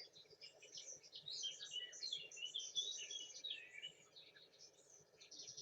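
Wild songbirds chirping and twittering, many short high calls overlapping, busiest in the middle and thinning out towards the end.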